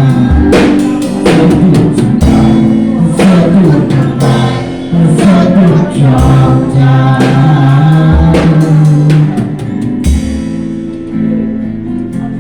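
Live worship music: a band with drum kit and bass playing under singing voices, with drum hits at a steady beat. About ten seconds in the drums drop out and the music turns softer.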